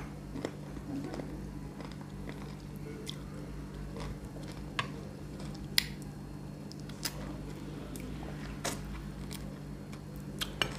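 Close-miked eating sounds: chewing with wet mouth clicks and lip smacks, and fingers being sucked and licked clean.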